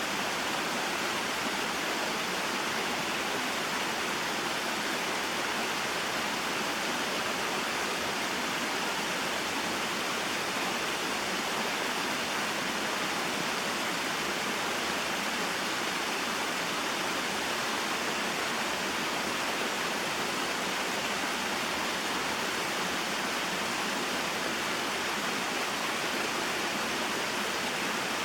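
Small waterfall and mountain stream, water rushing and splashing in a steady, unchanging wash.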